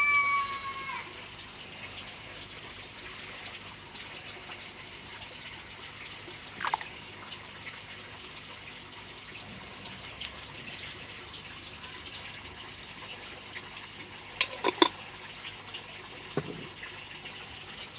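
Koi pond water running and trickling steadily, with a few sharp splashes at the surface: one about a third of the way in and a quick cluster a little past the middle.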